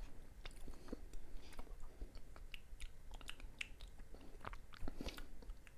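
Close-up chewing of a soft mochi rice cake with fruit-flavoured bean paste: soft, sticky mouth smacks and clicks, irregular throughout.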